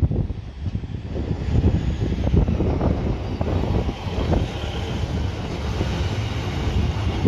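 Two coupled Class 153 diesel multiple units running past along the platform: a steady diesel rumble with wheels clattering on the rails.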